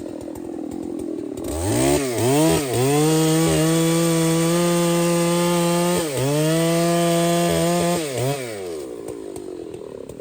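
Two-stroke chainsaw idling, then throttled up with two quick blips and held at high revs for about six seconds, with a short dip in the middle, before dropping back to idle.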